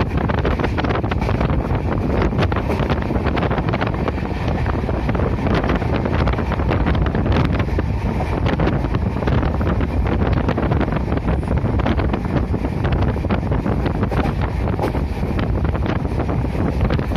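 Moving passenger train heard from inside the coach: steady wind buffeting the microphone over the rumble and clatter of the wheels on the track.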